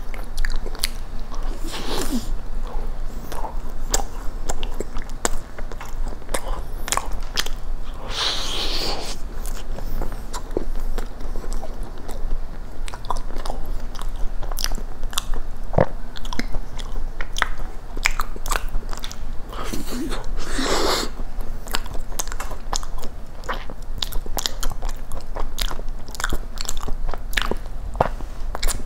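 Close-miked chewing and biting of a dense blueberry cookie cheesecake with a cookie crust: many small wet mouth clicks, with three louder bursts spread through.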